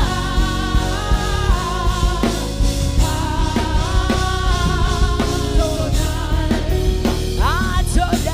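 Live gospel worship music: a singer's voice over a band with a drum kit keeping a steady beat.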